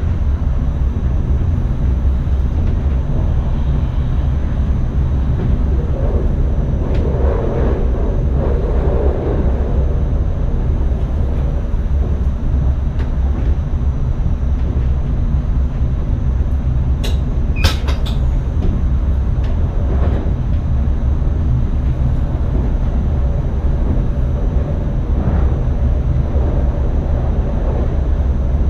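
Steady low rumble inside the driver's cab of an NS ICM electric train, with a faint steady high tone over it. A few sharp clicks come about two-thirds of the way through.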